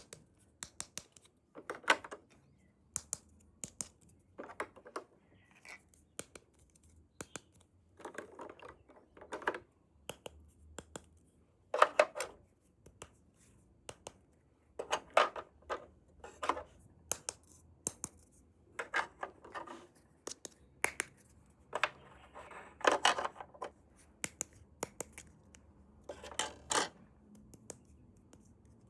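Small plastic toy pieces being handled, clicked together and set down: irregular sharp clicks and taps with brief scrapes and rustles, one to three a second.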